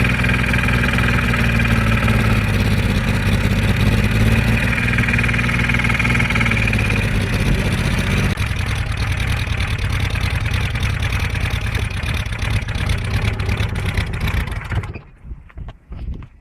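Car engine running at a steady idle, its note shifting lower about eight seconds in, then fading out in broken spurts near the end.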